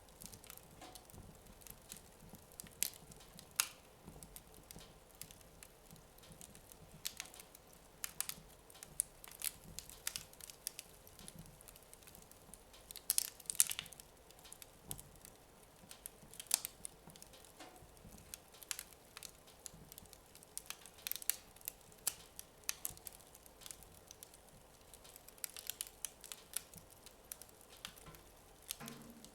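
Wood fire in a fireplace crackling: scattered sharp pops and snaps, irregular and fairly sparse.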